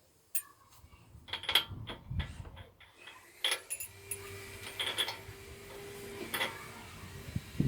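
A string of separate mechanical clicks and knocks, as of parts being handled. About three seconds in, a steady faint hiss begins, and a thin held tone runs for about two seconds in the middle.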